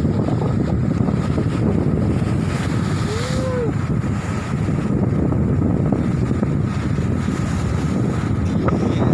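Wind buffeting the microphone: a steady, loud noise. About three seconds in there is one short tone that rises and falls.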